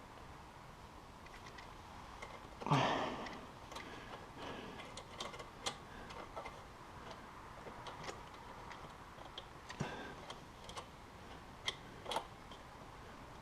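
Scattered small metallic clicks and taps from tools and exhaust parts being handled on a snowmobile, with one louder clunk about three seconds in.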